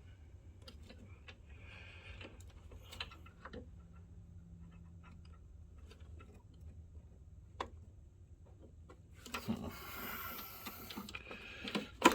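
Scattered light clicks and taps of hands working a wire and plastic parts inside a projector chassis, with a burst of rustling handling noise near the end, over a faint steady hum.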